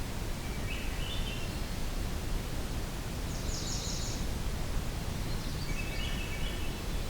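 Faint evening birdsong: three short, soft song phrases, one higher and trilled in the middle, over a steady low background rumble.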